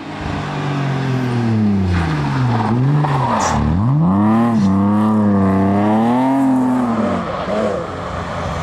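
Rally car engine revving hard, its pitch climbing and dropping several times as the driver shifts and lifts, with a couple of sharp cracks about three and a half seconds in.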